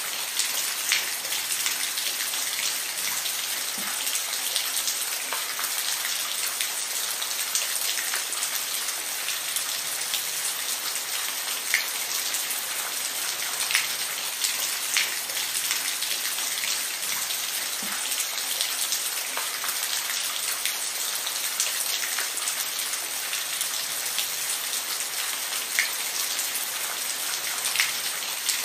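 Steady rain falling, an even hiss with individual drops ticking sharply on a hard surface here and there.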